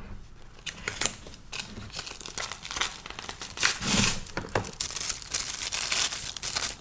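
Makeup advent calendar packaging being opened by hand: irregular crinkling and tearing, heaviest about halfway through and again near the end, as the next item is unwrapped.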